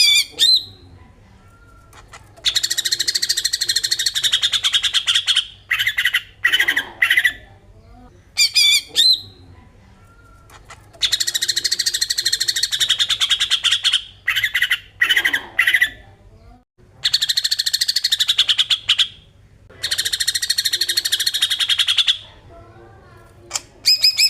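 Cucak ijo (green leafbird) singing in the 'besetan' style: four long, very rapid rattling trills of two to three seconds each, with short sharp chirps between them.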